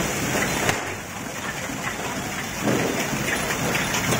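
Massed fireworks crackling and hissing in a dense, unbroken stream, dipping a little about a second in and surging again near the three-second mark.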